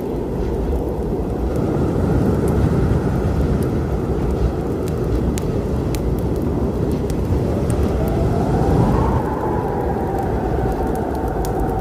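Storm ambience for sleep: a deep, steady rumble of thunder and wind, with the sharp pops and crackles of a wood fire scattered over it. About eight seconds in, a whistling tone rises and holds.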